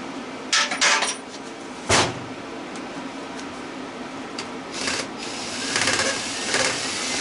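Metal clanks and clicks as an old electric motor is taken apart by hand with wrenches for scrap, a few sharp knocks in the first two seconds, then a longer rattling, scraping stretch near the end, over a steady low hum.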